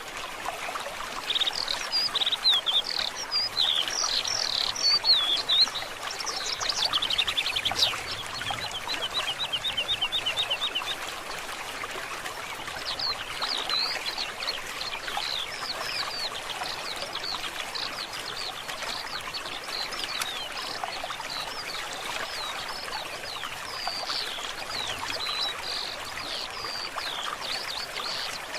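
A forest stream running steadily, with songbirds singing over it. The loudest, sweeping song phrases come in the first few seconds, followed by a fast, slightly falling trill, then softer overlapping chirps from several birds.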